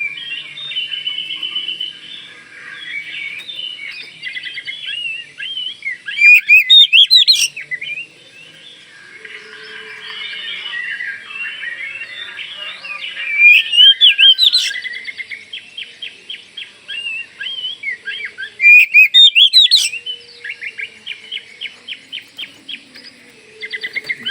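Bornean form of the oriental magpie-robin (kacer Kalimantan) singing a continuous, varied song of whistles and rapid trills, broken by three loud, fast phrases.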